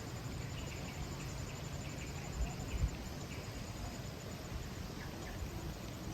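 Garden nature ambience: an insect trilling in a steady run of fast, even pulses, with a few short bird chirps in the first couple of seconds, over a low rumble of wind. There are two brief low thumps about two and a half seconds in.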